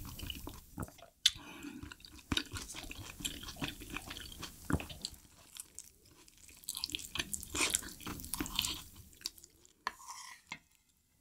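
Close-miked chewing and wet mouth sounds of eating spicy dumpling stew with noodles, mixed with a wooden spoon stirring and scraping in a stainless steel pot. A sharp click a little over a second in is the loudest sound.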